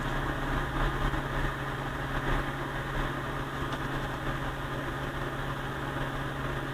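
Steady low hum with a hiss over it, from the electronic test bench while the crossover is driven with a test signal.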